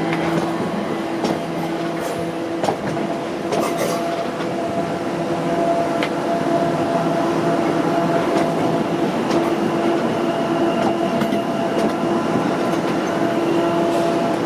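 A train at the station: a steady hum holding a few even tones, with occasional clicks from the wheels on the track.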